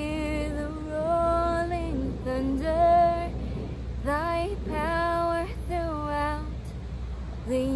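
A woman singing a cappella, one unaccompanied voice holding notes in short phrases that slide between pitches.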